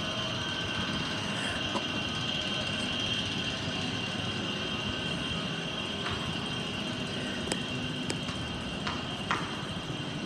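Train at a station platform: a steady mechanical rumble with a constant high whine, and a few light clicks.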